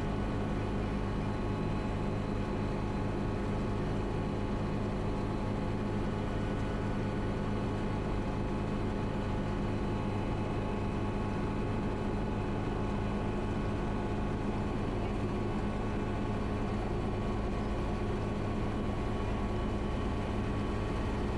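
Schweizer 300 helicopter's four-cylinder Lycoming piston engine and rotors running at a steady speed, heard through the cockpit intercom.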